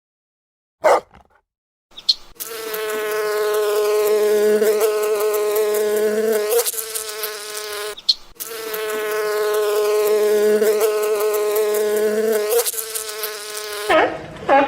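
A flying insect buzzing: a steady, slightly wavering tone that lasts about six seconds, stops briefly, then comes again for another six seconds. A short sharp sound comes about a second in.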